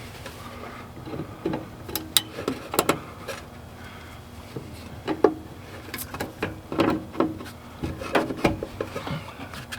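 Irregular clicks, knocks and scrapes of hand tools and metal squeeze clamps as hoses are worked loose from a diesel hydronic heater, over a steady low hum.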